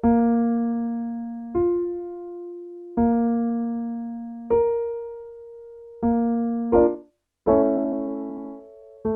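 Piano playing the pattern of a fifth/octave slide vocal exercise: a low note, the fifth above, the low note again, then its octave, each struck about every second and a half and left to ring and fade. Near the end a short note and a chord lead into a new starting note a little lower.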